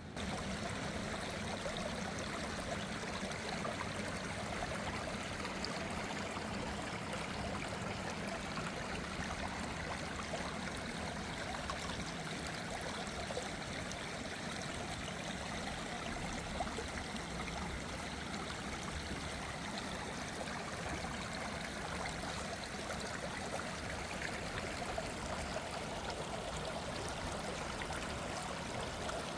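A small waterfall running: a steady rush and splash of falling water.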